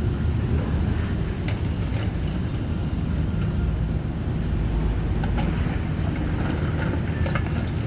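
Cat 305.5E2 mini excavator's diesel engine running steadily under working load, with a few sharp knocks scattered through.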